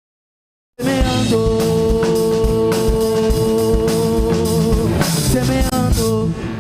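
Live rock band of two electric guitars, bass and drum kit playing a loud passage. It cuts in abruptly about a second in after dead silence, with a long held note over steady drum hits, and thins out near the end.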